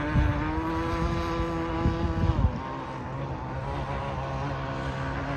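Tiger King 26 open-port two-stroke engine of an RC racing boat running at a steady high pitch, then easing off to a lower, quieter drone about two and a half seconds in. Wind gusts hit the microphone during the first half.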